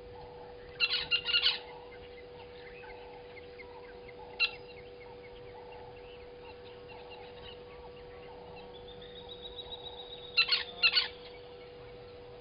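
A bird calling in runs of short, rapid calls: one run about a second in, a single short call around four seconds, and another run near the end, over a steady low hum.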